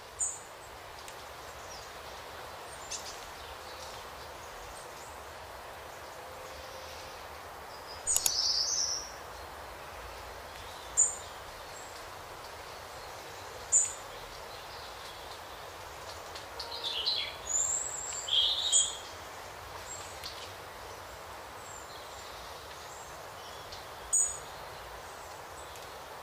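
Wild birds calling in short, high chirps and whistles every few seconds, with a brief flurry of calls about two-thirds of the way through, over a steady outdoor hiss.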